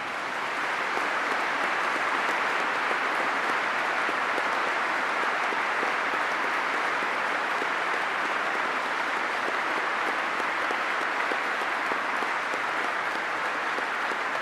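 Large audience applauding: a dense, steady wash of clapping that swells up over the first second and then holds without a break.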